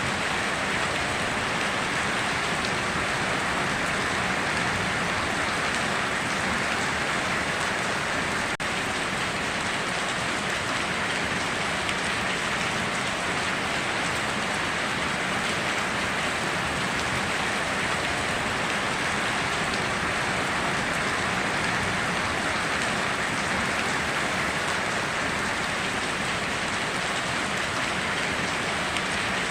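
Steady heavy rain falling, an even hiss of drops without a break.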